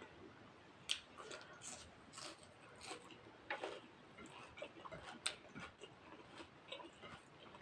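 Close-miked eating: soft chewing with irregular wet mouth clicks and smacks, a few sharper ones standing out, as a mouthful of rice and mutton curry is chewed.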